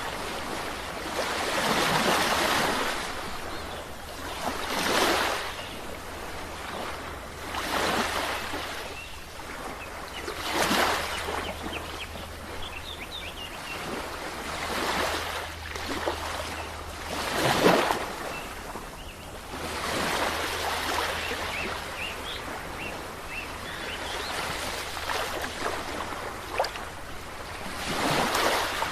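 Sea waves breaking and washing on a shore, the surf swelling and fading every two to three seconds.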